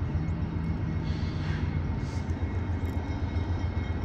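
Norfolk Southern welded rail train rolling past slowly: a steady low rumble, with a brief hiss about a second in.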